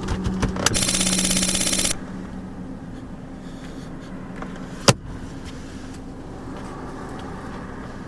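Car engine starting: a loud rapid cranking for about a second, then a steady engine hum heard inside the car. A single sharp click comes about five seconds in.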